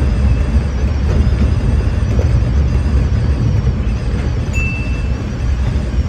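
Kintetsu 6020 series electric train running, heard from the driver's cab as a steady low rumble of wheels on rail. A short, high steady tone cuts in about four and a half seconds in.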